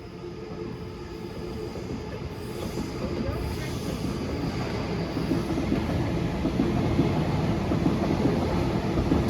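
Electric passenger train approaching through the station, its rumble of wheels and motors growing steadily louder.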